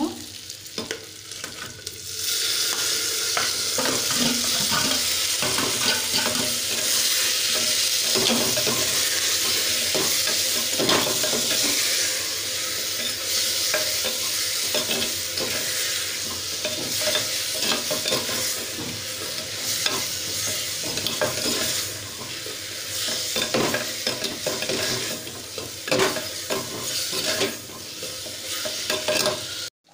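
Chopped tomatoes and vegetables sizzling in hot oil in a clay pot while a spoon stirs and scrapes through them. The sizzle swells about two seconds in as the tomatoes go in.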